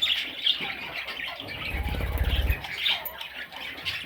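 Budgies squawking and chirping in rapid, scratchy calls, with a low rumble from about two seconds in.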